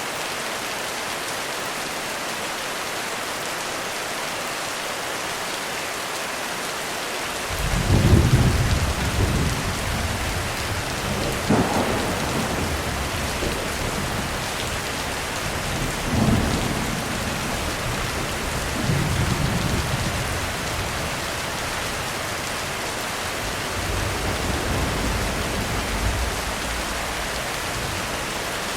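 Heavy rain falling steadily, with thunder breaking in about a quarter of the way through: a loud low rumble, followed over the next twenty seconds by several more rolls and a couple of sharper cracks.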